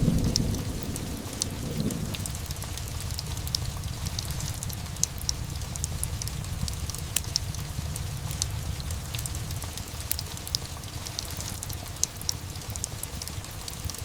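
Steady rain with the tail of a thunder rumble dying away over the first two seconds, mixed with a fireplace crackling in many small sharp pops.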